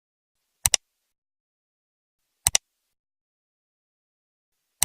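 Three sharp double clicks in otherwise dead silence, spaced about two seconds apart.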